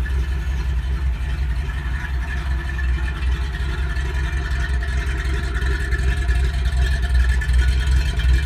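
1973 Ford Bronco's engine running steadily, with a deep, even low-end exhaust pulse.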